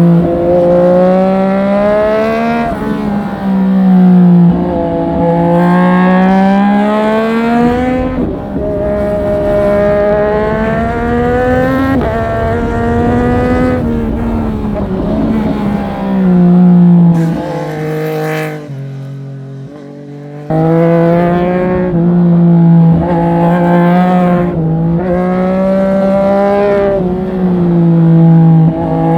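Triumph Street Triple 765 RS's inline three-cylinder engine under hard acceleration, its revs climbing and dropping again and again through gear changes. About eighteen seconds in the revs fall away low and quieter on a closed throttle, then pick back up sharply two seconds later.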